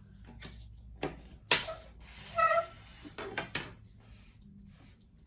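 A sheet of copy paper being folded and creased by hand: quiet rubbing and sliding of paper with a few sharp crackles, the loudest about a second and a half in. A brief short tone sounds about two and a half seconds in.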